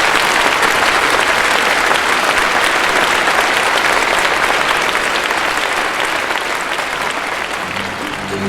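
Audience applauding, a dense steady clatter of clapping that slowly dies down toward the end.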